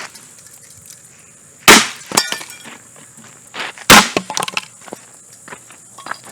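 Mainstays hugger ceiling fan being smashed: two heavy blows about two seconds apart, each followed by breaking pieces clinking and rattling.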